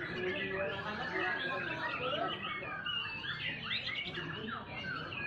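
White-rumped shama singing: a continuous, varied run of quick whistles, chirps and sliding notes.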